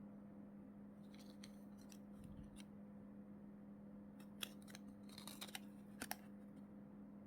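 Scissors snipping through plastic packaging: a few faint sharp clicks, most of them bunched together about four to six seconds in, over a steady low hum.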